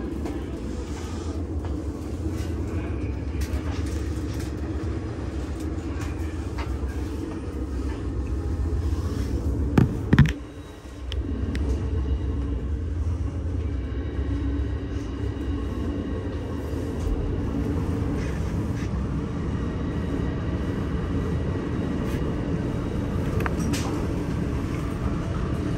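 Steady low rumble of a diesel-powered Metra commuter train standing at the platform. About ten seconds in there are two sharp knocks, and the rumble drops away for about a second before returning.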